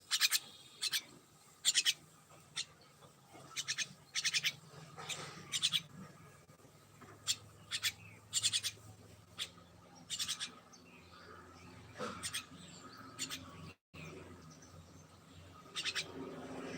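Small pet birds chirping: short, sharp calls at irregular intervals, some in quick pairs or clusters, over a faint low steady hum.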